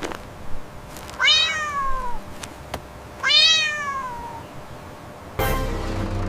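A cat meowing twice, each meow about a second long and falling in pitch. Music comes in near the end.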